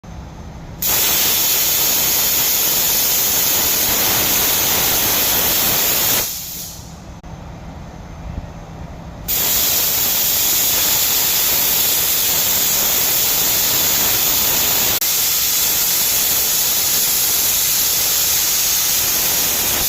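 Plasma cutter torch cutting, a loud, steady hiss. It starts about a second in, cuts off around six seconds and starts again about three seconds later.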